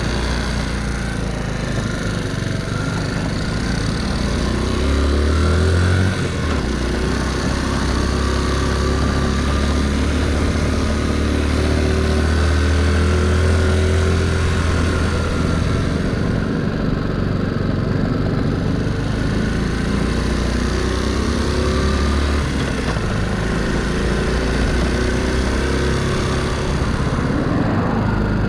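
Lifan 110cc four-stroke single in a Honda C90 step-through, running under way on the road. Its note changes about five or six seconds in, then holds steady and eases off a little after twenty seconds, with wind rushing over the microphone.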